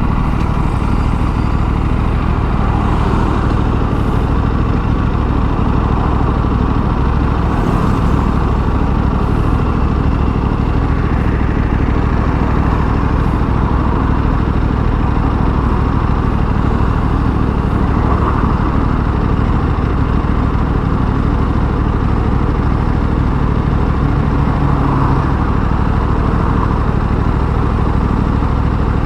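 Aprilia RS 457's parallel-twin engine running steadily.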